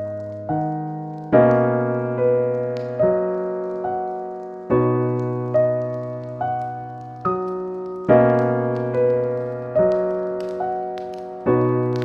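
Slow, gentle solo piano music: a chord struck about every second and a half, with one or two single notes between, each ringing and fading away.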